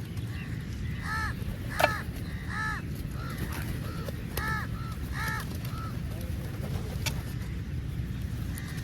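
Crows cawing: a run of about nine short calls, some in quick pairs, between about one and six seconds in, over a steady low rumble.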